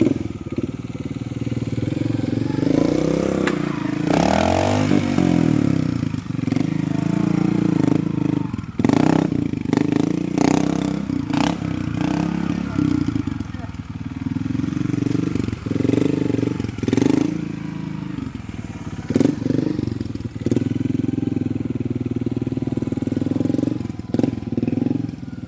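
Trials motorcycle engine running and being blipped, its revs rising and falling repeatedly, with several sharp knocks in the middle stretch.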